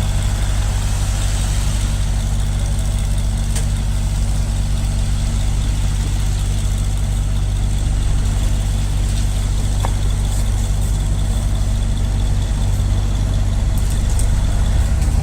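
A heavy vehicle engine idling steadily, with an even, unchanging low hum.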